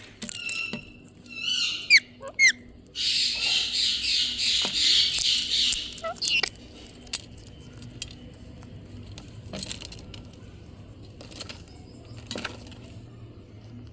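Indian ringneck parrot making short calls that glide in pitch, then a noisy, pulsing burst lasting about three seconds, followed by scattered clicks and brief chirps.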